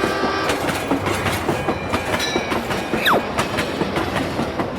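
A train's wheels clicking over rail joints in a steady clickety-clack, with a short falling whistle about three seconds in.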